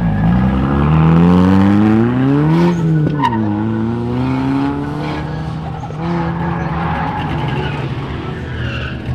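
Car engine revving hard, its pitch climbing for about two and a half seconds, dropping sharply near three seconds in, then running steadier and lower.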